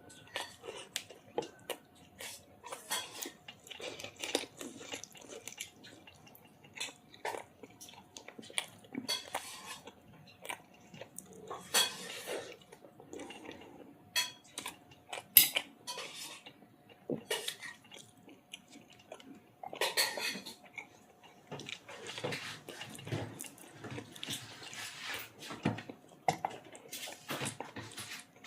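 Close-up eating sounds of a person chewing chicken curry with roti and rice, with irregular clinks of dishes and cutlery; one sharp clink about fifteen seconds in is the loudest.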